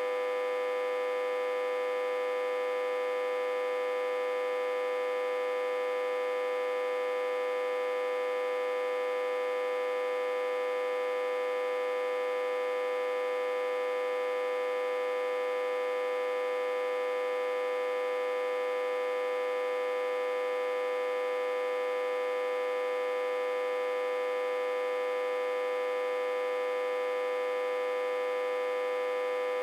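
Autotransformer humming, reverse-connected to a step-down transformer with about 60–80 V on its input: one steady, unchanging pitched tone with many overtones.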